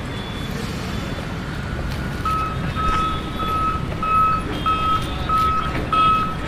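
A vehicle's reversing alarm starts beeping about two seconds in: short, evenly spaced beeps at one pitch, a little under two a second, over a steady background noise.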